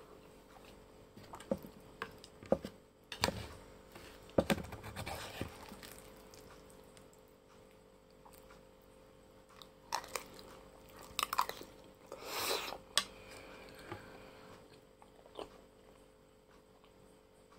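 Close-up chewing and eating sounds of a person eating Shan noodles. They come in irregular bursts with sharp clicks among them, grouped early on, again after about ten seconds, and once more near the end.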